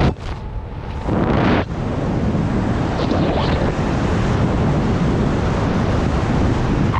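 Strong wind rushing over the microphone: a steady, loud rush of air that drops briefly just after the start and swells again about a second in.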